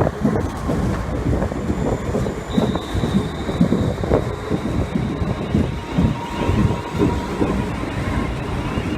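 Railway station platform ambience with a train running, dense and rumbling with wind buffeting the microphone; a faint steady high-pitched whine comes in about two and a half seconds in.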